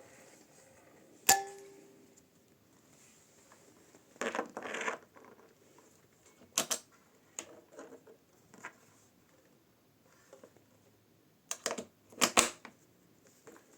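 Sharp clicks and knocks from an electric guitar being handled and its switches flipped. The loudest comes about a second in with a brief ringing tone. Clusters follow near the middle and near the end, over a faint steady hiss.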